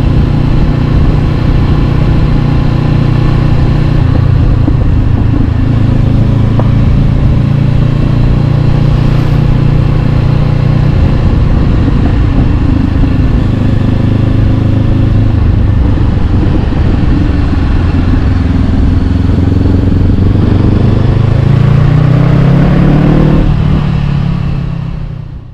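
Honda CB500X's parallel-twin engine running through an Arrow Pro-Race exhaust while riding, holding a steady pitch for most of the time, then revving up in a rising pitch about four seconds before the end before the sound fades away.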